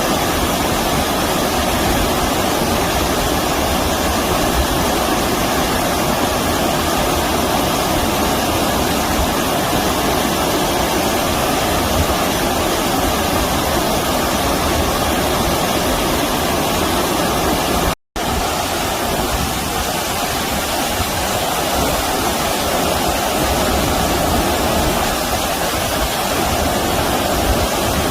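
Stream water rushing steadily, an even wash of noise that cuts out for an instant about two-thirds of the way through.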